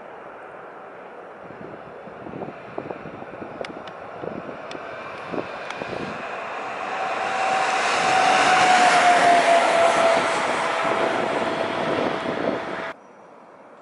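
Electric locomotive passing close by on the railway: its rumble and rail noise build up, with a few sharp clicks, and are loudest about eight to ten seconds in, where a whine drops slightly in pitch as it goes by. The sound cuts off abruptly near the end.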